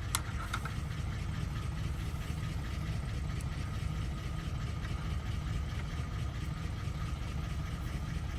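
A steady low mechanical rumble, like an engine idling, with a faint steady whine above it and a few light clicks in the first second.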